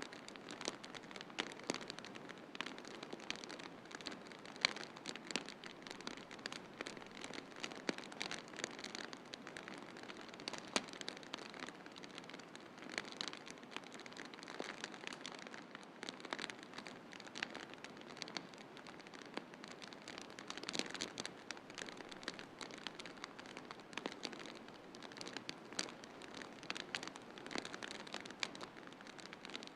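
Wood fire crackling in a fireplace: irregular sharp snaps and pops, several a second, over a steady soft hiss.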